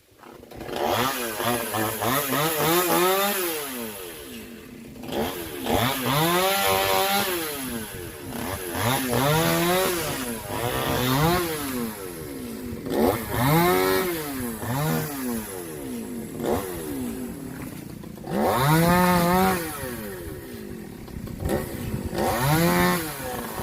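Chainsaw engine revving up and falling back to idle again and again, about nine times, as it cuts into the trunk of a tall tree.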